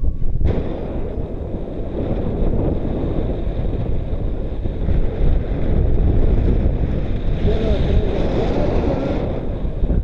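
Strong wind buffeting the microphone: a loud, continuous rumbling blast of wind noise.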